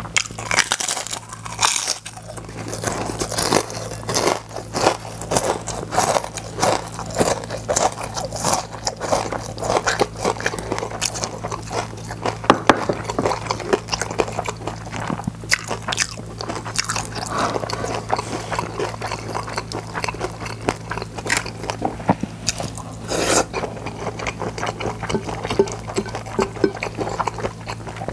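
Close-up crunching and chewing of crispy gim-bugak, fried seaweed chips coated in glutinous rice, with many sharp crackling bites over a steady low electrical hum.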